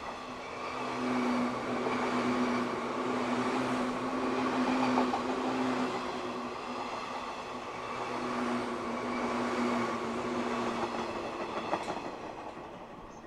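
JR East 185 series electric multiple unit running past: a steady hum over wheel-on-rail noise. It builds to its loudest about five seconds in and dies away near the end as the last car clears.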